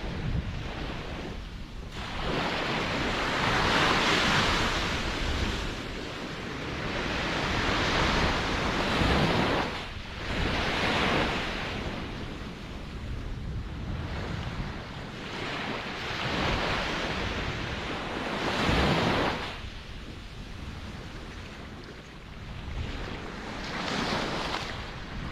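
Ocean waves breaking and washing onto the shore, surging in louder swells every few seconds and easing back between them.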